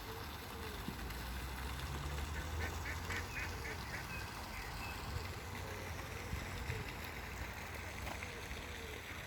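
Bird calls: a quick run of short calls about two and a half seconds in, over a steady background hiss.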